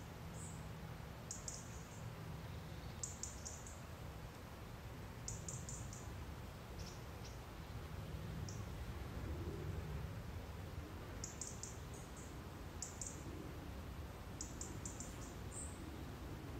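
High-pitched chirps from a small woodland bird, coming in quick runs of three or four notes every second or two, over a low steady rumble.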